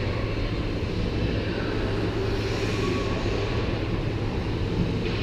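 Ice hockey arena background noise: a steady low rumble under an even hiss, with no distinct knocks or calls.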